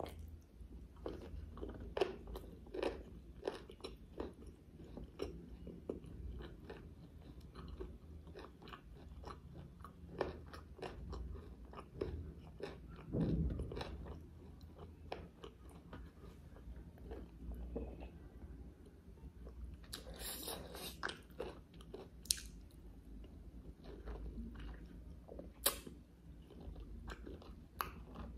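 A person chewing mouthfuls of butter chicken and white rice, with many short mouth clicks and smacks scattered throughout.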